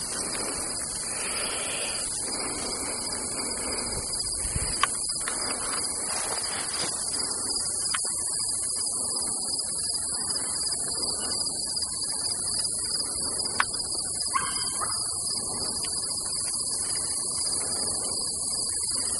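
Steady, high-pitched chorus of crickets, with faint rustling underneath and a few light ticks.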